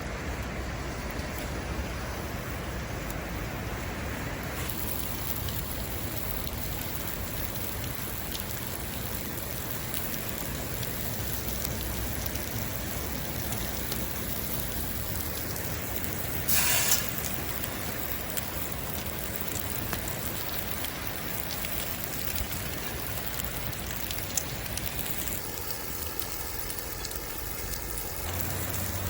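Hamburger patties sizzling over a campfire: a steady hiss, with one brief louder burst about sixteen seconds in.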